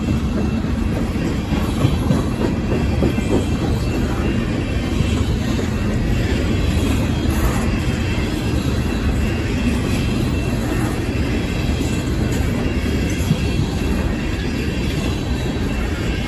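Empty steel coal hopper cars of a freight train rolling past close by: a steady rumble and rattle of wheels on the rails, with a faint high wheel squeal.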